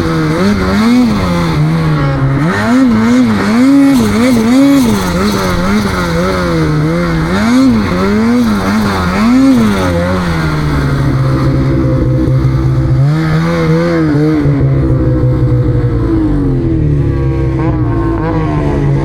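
Snowmobile engine being ridden hard, revving up and down in quick repeated throttle blips for about ten seconds, then running at a steadier, lower pitch with one short rise near the end.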